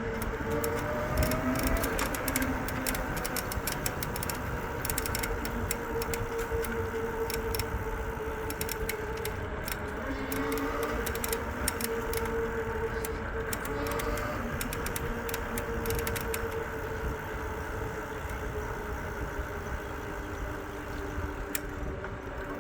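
An e-bike's electric motor gives a steady whine that drifts slightly in pitch as it rides along. Under it run low wind and tyre rumble, with many light rattling clicks.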